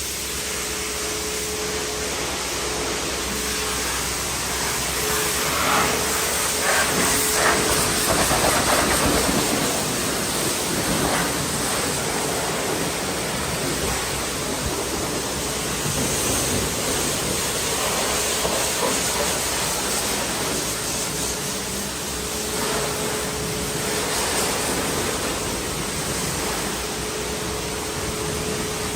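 High-pressure washer spraying water onto a car, a steady hiss of spray that swells and eases as the jet moves. A faint steady whine is heard at the start and again near the end.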